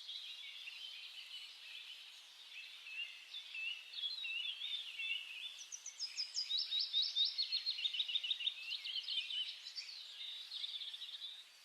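Small songbirds chirping and singing over one another, with a quick run of repeated short notes in the middle of the stretch.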